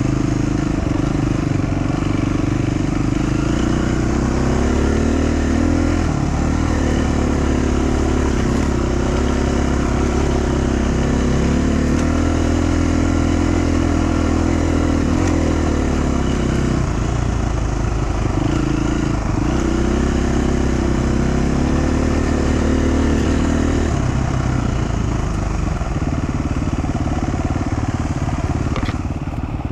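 Dual-sport motorcycle engine running under changing throttle, its pitch rising and falling every few seconds. About four-fifths of the way through it drops to a lower, rougher note as the throttle eases off.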